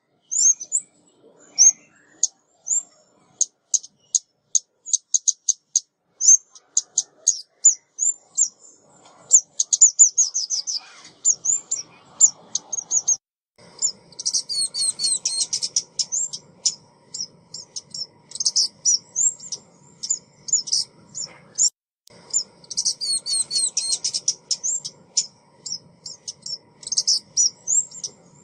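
Female ốc mít bird calling on a trapping lure recording. It gives rapid runs of very high, short chirps, sparse at first, then crowding into dense twittering about halfway through. A faint steady hum sits underneath from that point on.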